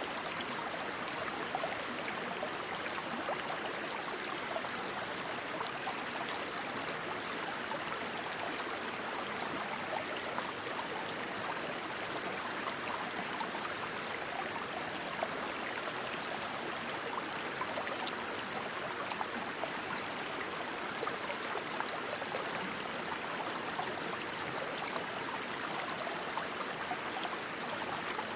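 Rushing water of a stream, steady throughout. Short high chirps come and go over it, with a quick high trill about nine seconds in.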